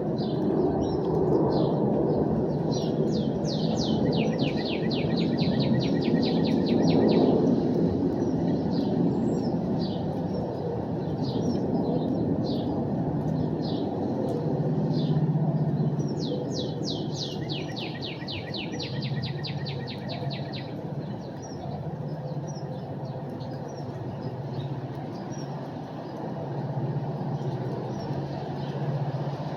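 Songbirds chirping, with one bird singing a fast trill of rapidly repeated high notes twice, about four seconds in and again past the middle, over a steady low outdoor rumble.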